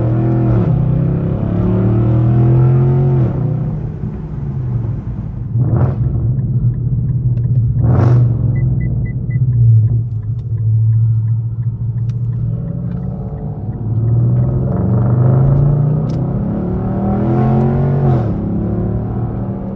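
Straight-piped Infiniti M56's 5.6-litre V8 exhaust, loud and rumbling under acceleration. The revs climb and fall away at a shift about three seconds in and again near the end, with a steadier cruise between. Two short whooshes come about six and eight seconds in.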